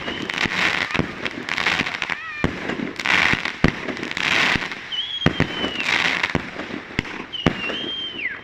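New Year's fireworks going off: a string of sharp bangs with bursts of dense crackling. Whistling fireworks screech twice, about five seconds in and again near the end, each falling in pitch as it dies away.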